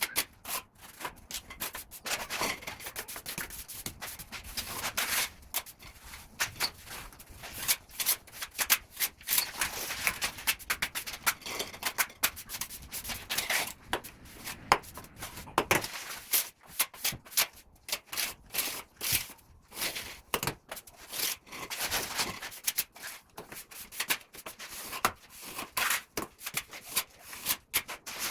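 Plastering trowel spreading and scraping cement mortar, a long run of irregular rasping strokes.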